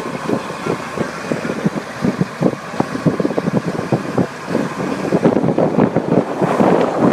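High-water truck driving, with wind buffeting the microphone in irregular gusts that grow louder near the end.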